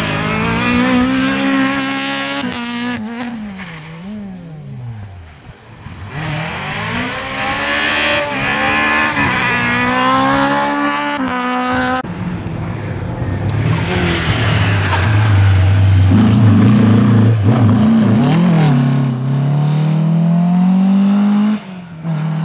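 Rally car engines revving hard through the gears as the cars go by, the pitch climbing in each gear and falling away on lifts and shifts. The sound changes abruptly about halfway through and drops off sharply near the end.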